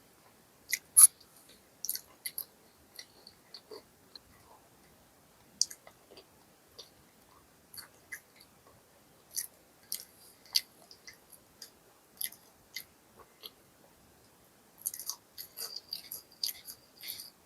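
Close-miked chewing of fast food: scattered wet mouth clicks and soft crunches. About fifteen seconds in they become a quick run of crisp crunching.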